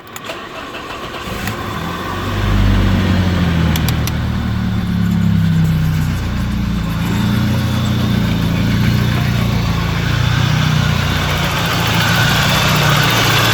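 A 1992 BMW 318i's four-cylinder engine is cranked, catches about two seconds in, and then idles steadily. The idle carries no bearing noise from the A/C compressor, whose bearing has just been replaced.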